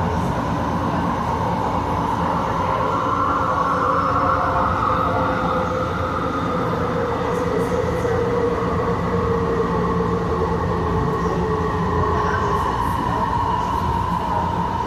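Passenger train running at speed, heard from inside the car: a steady low rumble under an electric motor whine that slowly drifts up and down in pitch.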